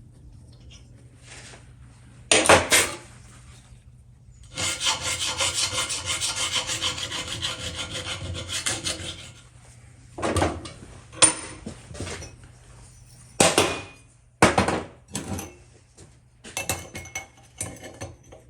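Metal being worked by hand with a file. A short scrape, then about five seconds of quick continuous rasping strokes, then several short scrapes near the end.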